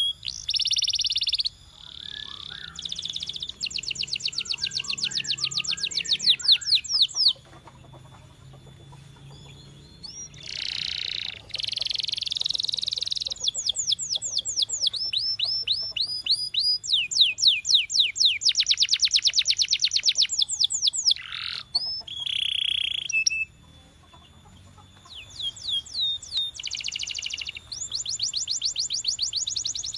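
Domestic canary singing in long phrases of rapid trills, fast repeated sweeping notes and rolling buzzy notes. There are short pauses between phrases, about seven seconds in and again near the end.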